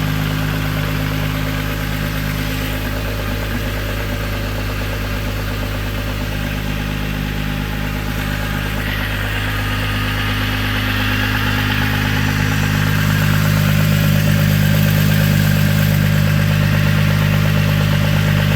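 Volkswagen VR6 engine idling with a ticking from the valvetrain, which the owner takes for valve or lifter noise; it comes on for a few minutes after the rebuild engine starts and then goes away. The running gets a little louder about two-thirds of the way through.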